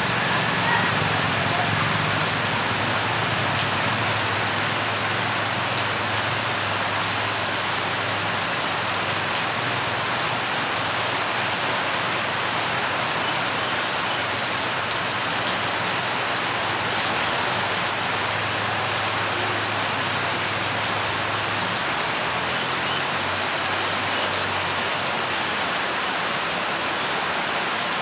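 Heavy rain pouring onto floodwater that covers a road: a steady hiss of drops splashing on the water's surface.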